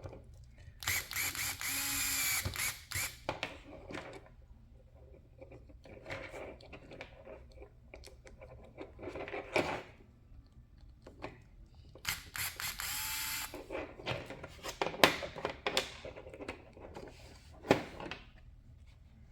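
Two whirring, ratcheting bursts of about two seconds each, one about a second in and one about twelve seconds in, among sharp clicks and knocks of small metal parts and tools being handled.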